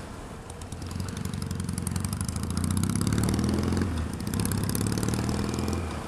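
Kawasaki ER-6f parallel-twin motorcycle engine running under the rider, getting louder as it pulls away about half a second in, with a brief dip in engine note about four seconds in before it pulls again.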